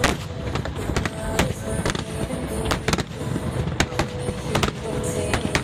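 Fireworks going off in quick succession, many sharp bangs and cracks a second over a constant rumble of further bursts.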